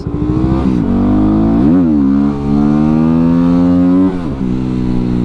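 2017 Yamaha WR250R's 250cc single-cylinder engine pulling through the gears. The revs climb, drop at a gear change about a second in, climb slowly again, and drop at another shift about four seconds in. Wind rush runs underneath.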